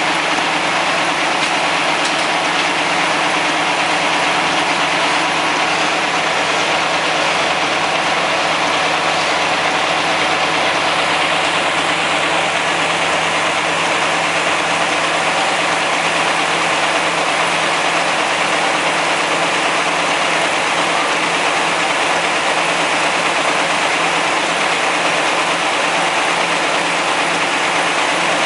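Vintage Caterpillar D13000 diesel engine running at a steady speed, powering a sawmill.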